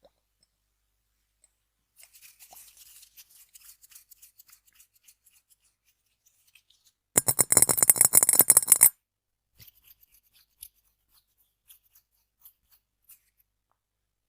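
Rapid tapping on an object close to the microphone: light, crackly tapping for a few seconds, then about a second and a half of fast, loud tapping, followed by a few scattered light clicks.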